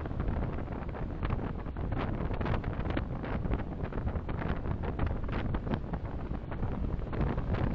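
Road and engine noise of a car driving, picked up by a dashcam microphone inside the car: a steady low rumble with many small ticks and knocks through it.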